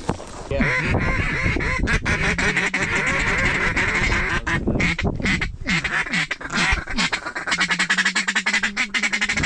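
Mallard-type duck quacking: a long run of fast, chattering quacks with several quacks a second, the rapid feeding-chuckle pattern of duck calling.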